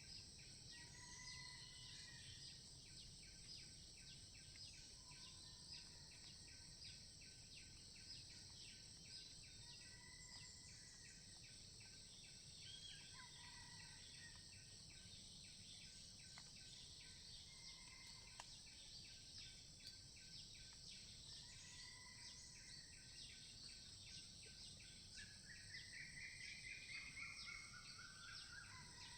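Faint forest insect chorus, a steady high shrill pulsing, with a bird repeating a short call every few seconds and a longer run of stepping-down notes near the end.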